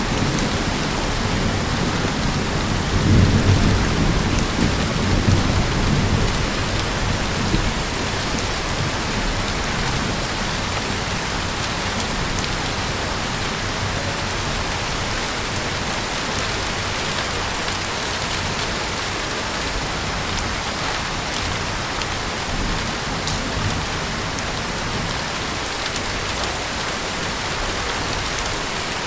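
Heavy rain falling steadily in a dense, even hiss. A low rumble of thunder swells about three seconds in and fades after a few seconds.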